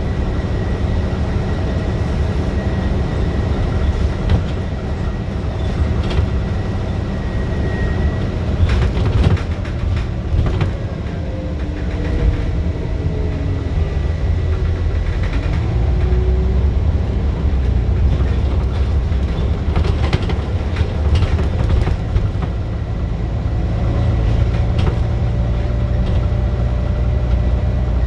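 Scania bus diesel engine running hard under load, with a heavy low rumble. Sharp rattles come in bursts, and a faint whine rises in pitch several times as the bus gathers speed.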